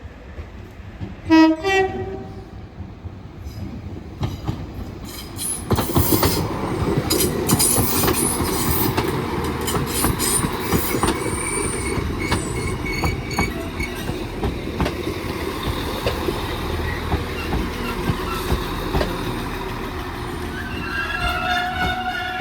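Two coupled Class 195 diesel multiple units arriving at a station. A short two-tone horn sounds about a second in, then a loud rumble with wheel clatter and thin brake squeal as the train comes in, ending in a steady whine as it stands.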